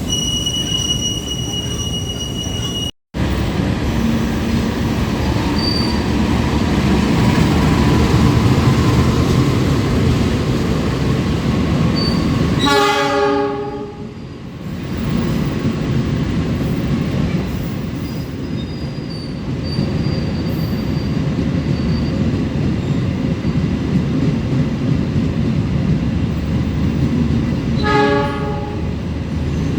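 Train passing through a railway station with a steady rumble of wheels and cars. A high steady squeal is heard in the first few seconds, and the sound briefly cuts out. A train horn sounds about 13 seconds in and again briefly near the end.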